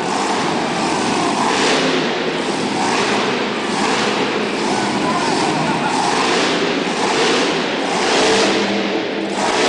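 Monster truck engine running loud and revving in repeated surges.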